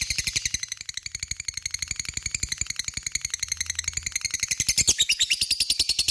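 Lovebird giving its long 'ngekek' chatter: an unbroken rapid trill of high, sharp notes, about a dozen a second. About five seconds in the chatter shifts in pitch and grows louder.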